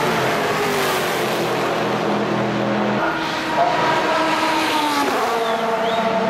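Race car engines running on track, several at once, their pitches holding and then stepping and sliding down as the cars change gear and pass.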